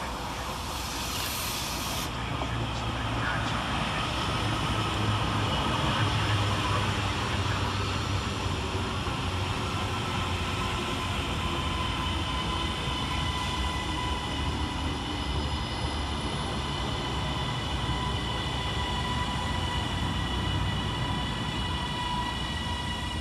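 Class 397 electric multiple unit arriving at a station platform: a low rumble, with a steady electric traction whine of several high tones held over it. A brief hiss sounds in the first two seconds.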